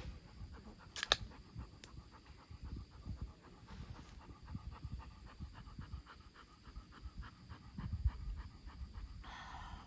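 Golden retriever panting rapidly in quick, even breaths, with a single sharp click about a second in.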